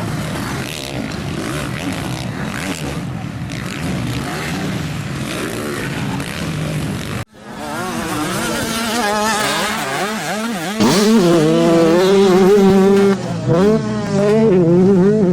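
Motocross bikes racing. A mixed blur of engine noise gives way, after a sudden cut, to dirt-bike engines revving up and down, louder from about eleven seconds in.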